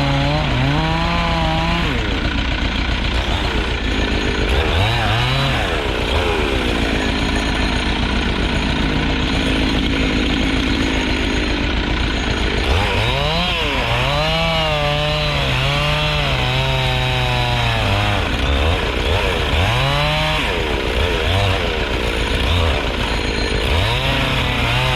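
Two-stroke chainsaw cutting wood, its engine revving up and dropping back again and again as the throttle is worked.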